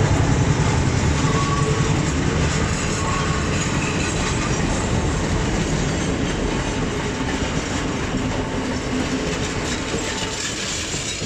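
Train rolling past on the rails at a level crossing, its sound fading steadily as it moves away.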